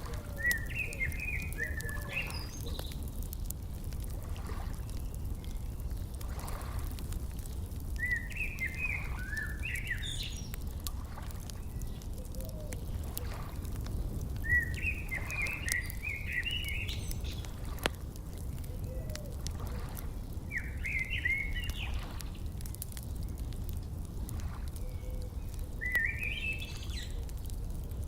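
A songbird repeating a short warbled phrase about every six seconds, over scattered fire crackles and a steady low rumble.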